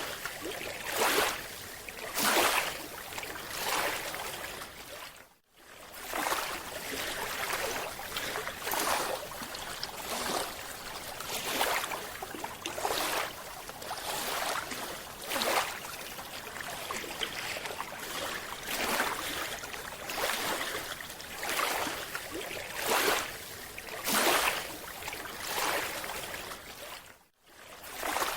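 Bubbling and rushing water heard underwater, swelling in irregular surges every second or two; it cuts out briefly twice.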